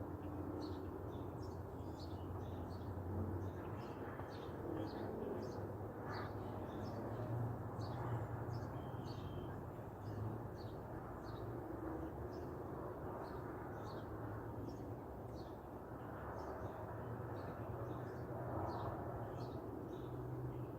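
Outdoor birdsong: many small birds chirping in quick, overlapping short notes throughout, over a steady low background rumble.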